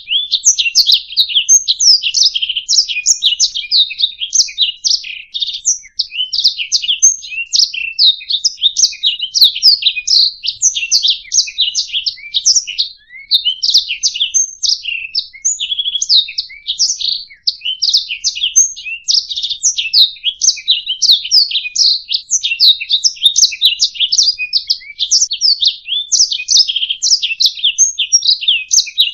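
Domestic canary singing a long, almost unbroken high-pitched song of rapid trills and chirps.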